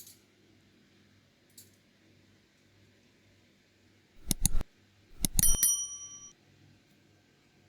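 Metal cutlery clinking against dishes: three quick knocks, then a cluster of clinks about a second later that ring briefly.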